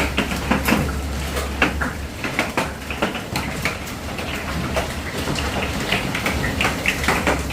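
Hailstones pelting down in a dense, irregular clatter of sharp impacts over a steady hiss of falling ice and rain, with a low steady rumble underneath.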